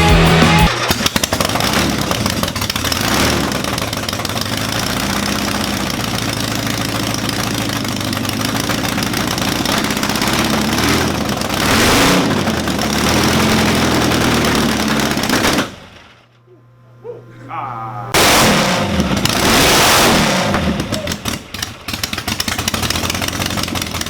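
Air-cooled VW engine running, with several surges of revving and a brief drop-out about two-thirds through.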